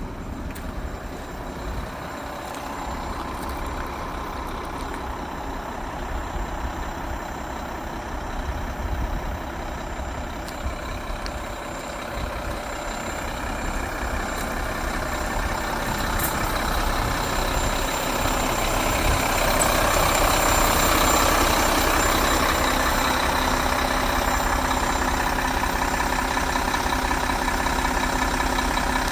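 Diesel engine of a 2008 Mack concrete pump truck running steadily, growing louder about two-thirds of the way through and then holding at the higher level.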